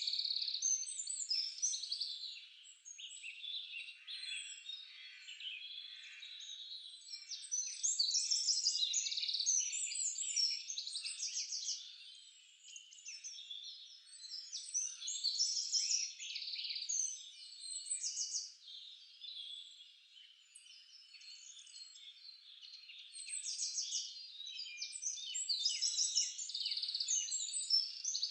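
A chorus of several songbirds singing and calling at once: overlapping chirps, whistles and fast trills, busiest around 8 to 11 seconds in and again near the end.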